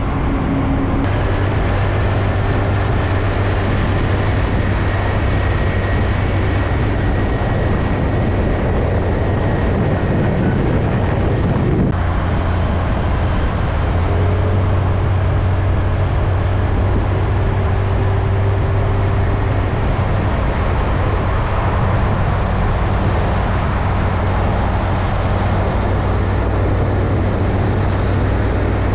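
Heavy road traffic: truck engines and tyres running steadily with a low drone. The sound changes abruptly twice, once about a second in and again about twelve seconds in.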